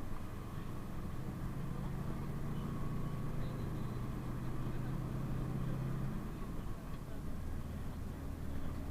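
PAZ-32054 bus engine running on the move, with a steady hum that drops to a lower pitch about six seconds in as the engine revs fall.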